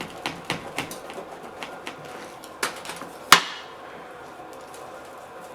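A knife cutting a deep dish pizza in its pan: a run of light, quick taps, then two sharper knocks about two and a half and three seconds in. The second knock is the loudest and rings briefly, like metal striking the pan.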